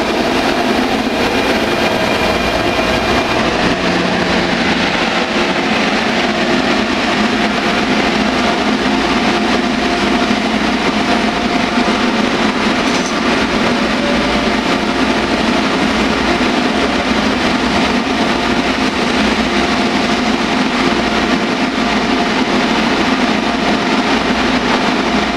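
An MTR A-Train electric multiple unit running through a station, with a steady rolling noise and a held whine from the train's motors. A higher whine fades out about three seconds in.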